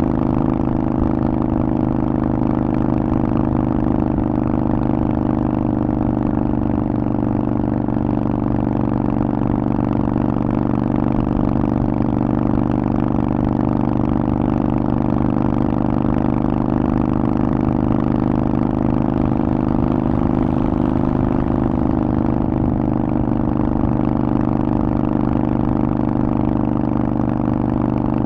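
Harley-Davidson Forty-Eight's air-cooled 1200 cc V-twin running through a Vance & Hines exhaust, holding one steady engine speed with no revving.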